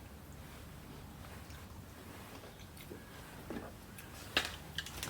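Quiet room tone with a few faint, short clicks and knocks in the second half.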